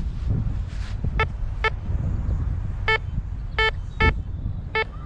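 Metal detector, a Harbor Freight 9-function model, giving about six short electronic beeps at irregular spacing as its coil sweeps over a buried target, over a low steady rumble.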